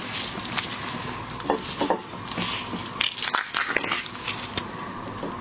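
Close-up eating sounds of seafood: crunching and chewing, with a run of short, sharp cracks.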